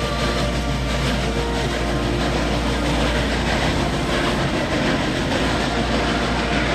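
A train running on rails: a loud, steady running noise with a low hum beneath.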